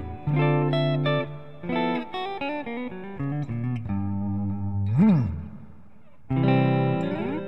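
Background guitar music: a run of plucked notes, with a quick bend down and back up about five seconds in, a brief lull, and a rising slide near the end.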